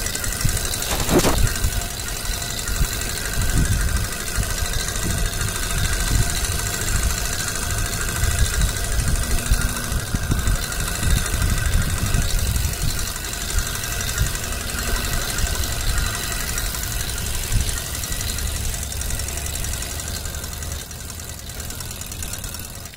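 A small vehicle engine running steadily, with irregular low thumps over it.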